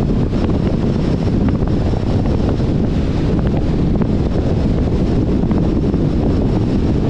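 Steady road and wind noise from a 2021 Jeep Compass driving at speed: a low rumble, with wind buffeting the microphone.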